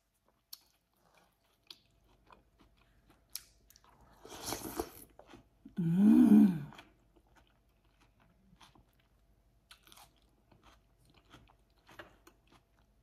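Close-up eating sounds of a mouthful of ranch-dressed salad: soft wet chewing and mouth clicks, a slurp about four seconds in, and a louder slurp with a hummed "mm" about six seconds in.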